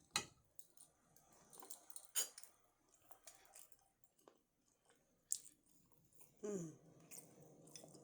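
A person chewing food close to the microphone, quietly, with a few sharp clicks and small crunching noises. A short hum comes about six and a half seconds in.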